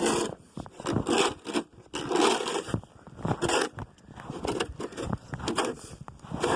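Snow crunching in a steady rhythm, about one crunch a second.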